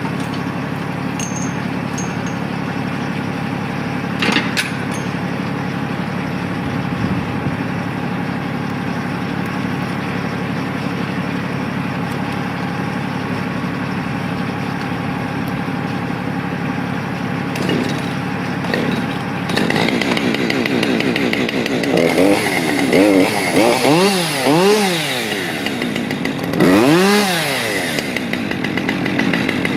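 An engine runs at a steady speed; about twenty seconds in, a chainsaw starts revving up and down in repeated surges, with the pitch rising and falling several times.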